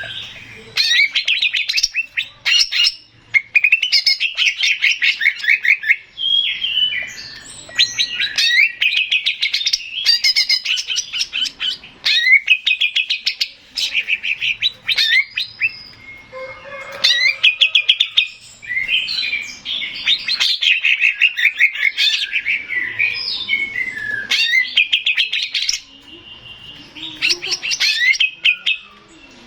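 Male cucak ijo (greater green leafbird) singing: loud, rapid rattling trills and chattering whistled phrases in quick bursts with short breaks between them.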